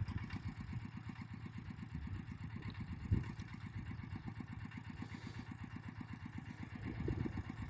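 Engine of a motorised plough running steadily with a fast, even beat as it ploughs amendments into the soil. There is a single knock about three seconds in, and the engine gets a little louder near the end.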